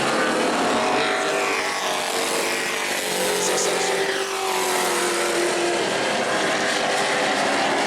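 Several Pro Truck racing trucks running at speed around a short oval, their engines passing one after another with falling pitch.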